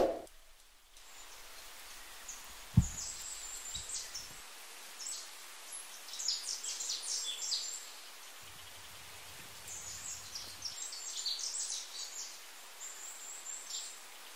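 Small birds chirping in quick bouts of short, high calls. There is a loud, short sound right at the start and a low thump about three seconds in.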